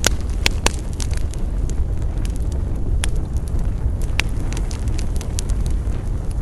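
Campfire burning, the wood crackling and popping at irregular moments, with a few sharp pops near the start and a couple more about three and four seconds in, over a steady low rumble.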